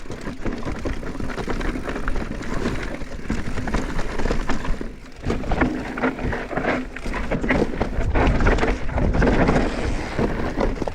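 Mountain bike riding down a rocky trail: tyres rumbling and crunching over rock, with the bike rattling and clattering and wind rushing over the microphone.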